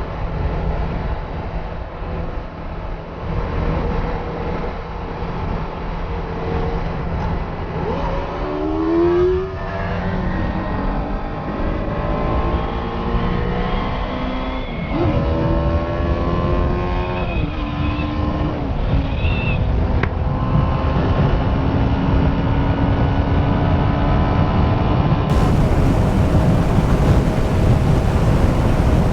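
Benelli TNT 600i's inline-four engine heard on board while riding. The revs climb twice, about a third of the way in and about halfway, then hold at a steady cruise, with wind noise building toward the end.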